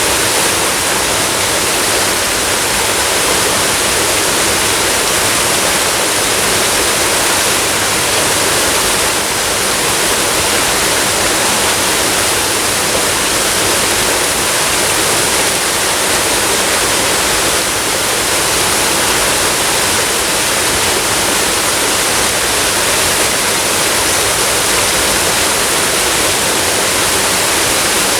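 Waterfall rushing, a steady dense roar of falling water with no breaks, its energy mostly in the mid and high range.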